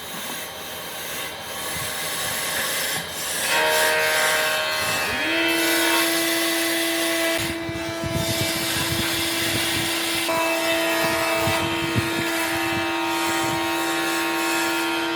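Woodworking power tool working wood: rubbing and scraping at first, then the tool's motor spins up about five seconds in and runs at a steady pitch while it cuts or abrades the wood.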